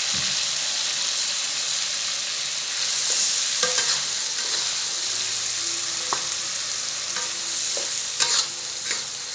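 Blended green chilli paste frying in hot oil in a wok, with a steady loud sizzle, while a spatula stirs it and knocks against the pan a few times, mostly in the second half.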